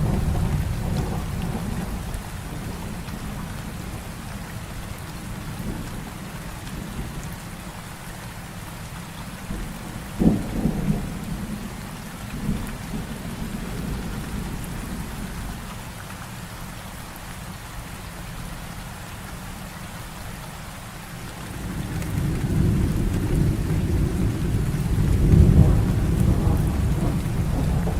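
Heavy rain falling steadily, with thunder: a rumble fading at the start, a sharp crack about ten seconds in with a smaller one soon after, and a long rolling rumble that builds near the end.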